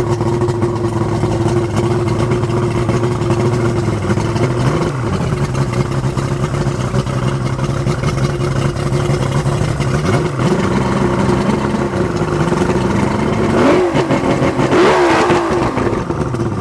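Carbureted Yamaha 200 HP V6 two-stroke outboard running just after starting, mostly at a steady idle. Its pitch dips and swings up a few times, and it revs briefly and quickly near the end.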